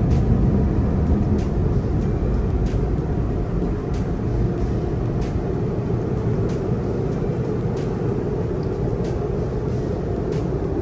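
Steady vehicle rumble, a little louder at the start and then even, with faint regular ticks about every one and a third seconds.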